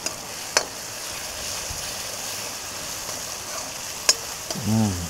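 Chopped tomato, greens, green chilli and curry leaves frying in oil in a metal kadhai, with a steady sizzle. A metal spoon stirs and scrapes the pan, clinking sharply against it twice.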